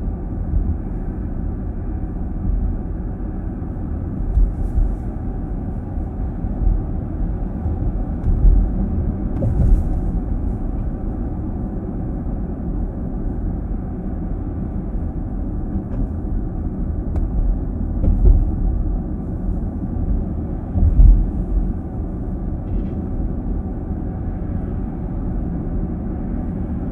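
Car driving on a city road, heard from inside the cabin: a steady low rumble of tyre and road noise, with a few louder low bumps scattered through.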